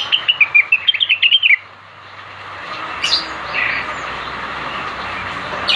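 Blue-winged leafbird (cucak wilis) singing: a quick run of chirping notes for about a second and a half, then single sharp calls about three seconds in and again at the end.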